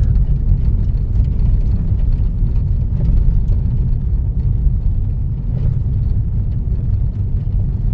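Steady low rumble of a car's engine and tyres heard from inside the cabin while driving along.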